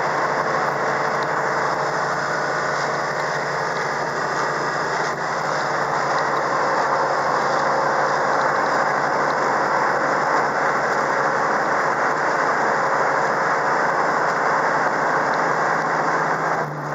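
1971 Dodge Charger R/T's 440 four-barrel V8 running steadily under way, mixed with road and wind noise, the loudness holding even throughout.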